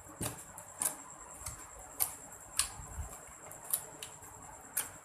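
Slime being squeezed and worked by hand, giving irregular sharp clicks and pops, about one or two a second.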